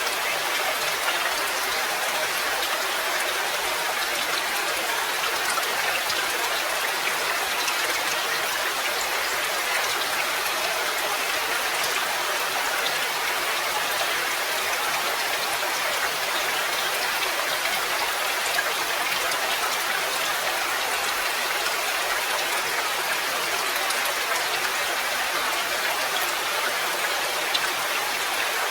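Steady rain, an even, dense patter of drops.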